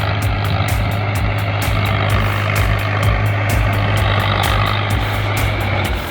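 VST Shakti tractor's Kirloskar diesel engine running steadily, with a strong low drone and an even clatter.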